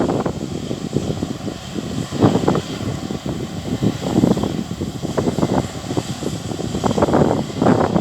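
Steady engine drone of harvesting machinery, a combine and tractors working the field, with irregular surges of wind buffeting the microphone.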